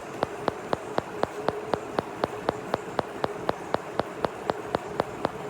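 Regular ticking, about four sharp clicks a second, over a faint steady hum.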